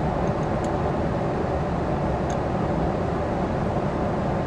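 Steady rumble and hiss of a jet airliner's cabin in flight, with a couple of faint small clicks.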